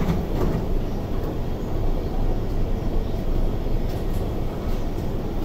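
Steady low hum of a stationary SP1900 (IKK) electric train, its ventilation and auxiliary equipment running while it stands at an underground platform with its doors open, with a few faint clicks.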